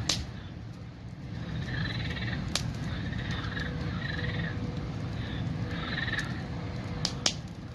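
Frogs croaking in a chorus, their pulsed calls coming again and again over a steady low rumble. Three sharp cracks stand out, one at the start, one a third of the way in and one near the end.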